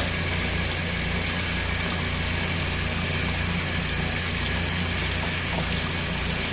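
Hot water running steadily from a tap to purge the cold water from the line, over a steady low mechanical hum with a slow pulsing beat.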